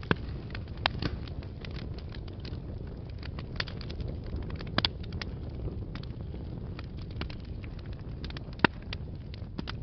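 Wood fire crackling in a fireplace: a steady low rumble of flames with irregular sharp pops and snaps, the loudest about a second in, near the middle and near the end.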